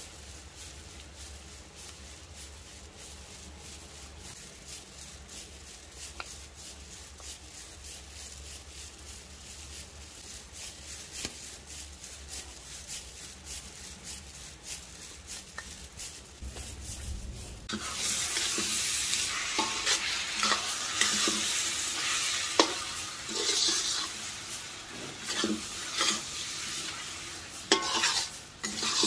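Curry frying and sizzling in a pot on a wood-fired stove while it is stirred. About eighteen seconds in the sizzle grows much louder, with sharp knocks and scrapes of the stirring against the pot.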